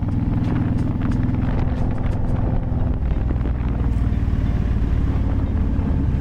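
Motorcycle engine running under way, heard from the rider's microphone; the engine note drops to a lower pitch about halfway through.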